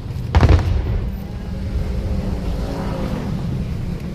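A single aerial firework shell bursting with a sharp bang a moment in, over a steady low rumble.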